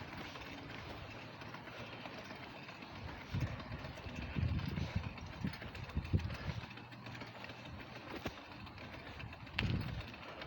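Steady noise of wind and traffic heard while riding a bike, with a few louder low rumbles in the middle and one more near the end.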